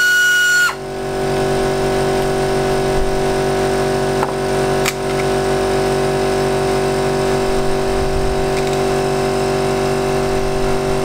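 A power tool's high whine winds down and stops about a second in, leaving a steady low machine hum with two sharp clicks around the middle.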